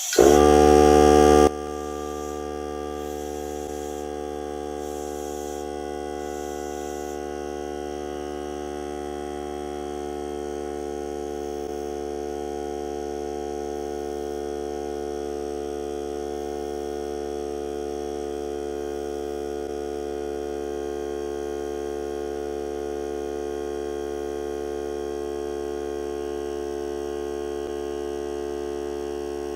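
Hart cordless air compressor's motor and pump kicking on, loudest for about the first second and a half, then running at a steady, even hum. It is refilling its tank after air has been drawn off through a breathing regulator.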